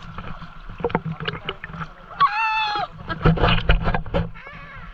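River water rushing and splashing around people wading in a strong current, with a burst of heavier splashing a little past the middle. A short high-pitched cry rings out about two seconds in.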